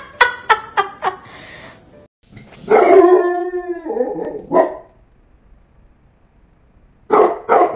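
A dog gives one long howl, then a single bark, and near the end a quick run of three or four barks.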